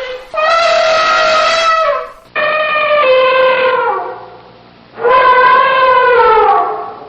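An animal calling three times in a row, each call a long steady-pitched note of about one and a half seconds that drops in pitch as it ends.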